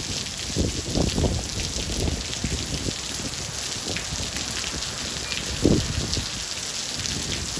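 Steady rain falling, with heavier drops hitting close by as short dull thuds every second or so; the loudest thud comes a little before six seconds in.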